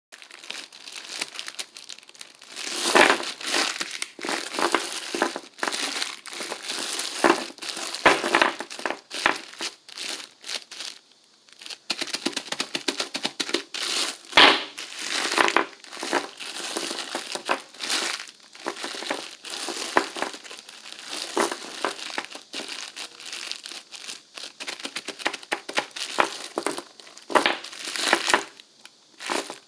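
A crinkly plastic pack, the kind filled with small steel beads, squeezed and kneaded by hand. It gives irregular crinkling and crackling, with short pauses between squeezes.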